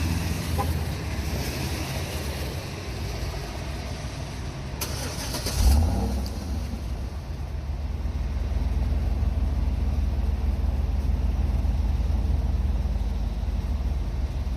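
The 5.3-litre V8 of a 2011 Chevy Avalanche running through its stock muffler, resonator and single tip, an exhaust the owner calls asthmatic and boring. About five seconds in there is a short burst of noise as the engine is started, then it settles into a steady idle.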